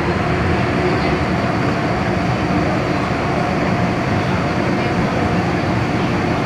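MTR M-Train metro car running along the track: a steady rumble of wheels on rail with a faint steady tone over it.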